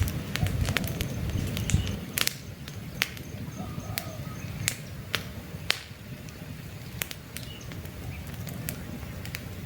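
Wood campfire crackling, with sharp irregular pops and snaps over the low rush of the flames, which is louder in the first two seconds. Faint bird chirps in the background.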